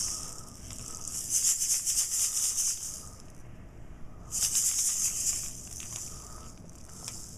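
A baby's toy rattle being shaken in bursts: a brief shake at the start, then two spells of about a second and a half each, a little over a second apart.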